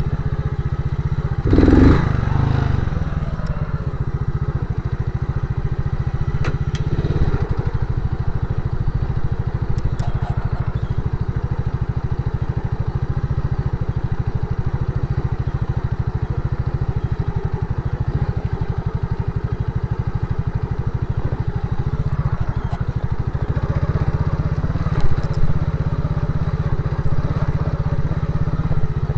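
Motorcycle engine running steadily, with one brief loud thump about two seconds in.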